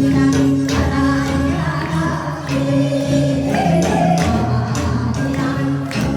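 A singer performing a song over backing music with a steady beat.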